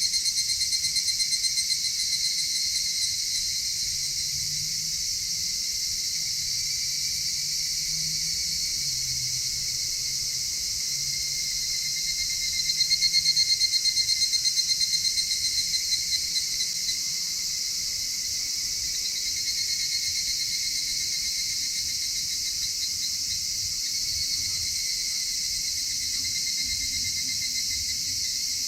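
A chorus of crickets and other insects trilling steadily in high, pulsing tones. One nearer trill swells louder briefly at the start and again about halfway through.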